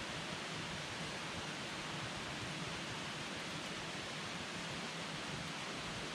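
Campfire burning with a steady hiss and rush of flame, with no distinct crackles or pops.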